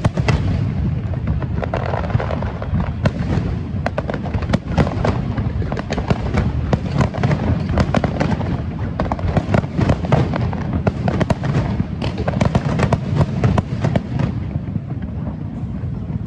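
Fireworks display: a rapid, dense run of bangs and crackles over a steady low rumble, thinning out near the end.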